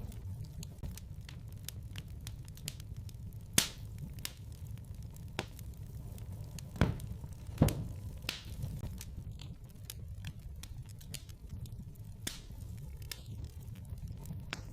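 Wood fire crackling in a fireplace: a low steady rumble with constant small clicks and sharp pops, the loudest three about three and a half seconds in and two close together near the middle.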